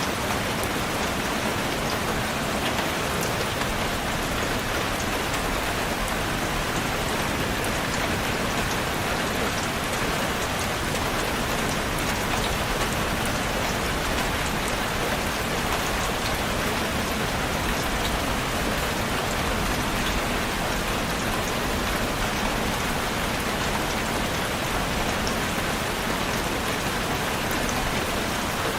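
Steady rain falling on a surface, an even hiss with scattered drop ticks and no let-up.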